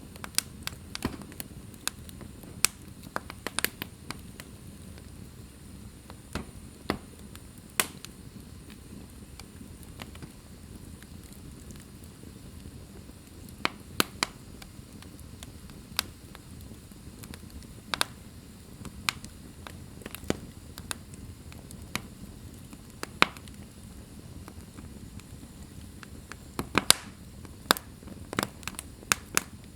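Wood fire in a fireplace crackling: irregular sharp pops and snaps over a low, steady rumble of burning, with a flurry of louder pops near the end.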